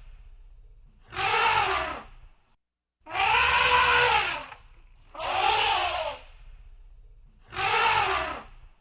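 Elephant trumpeting: four loud, brassy calls of about a second each, evenly spaced, each rising and then falling in pitch.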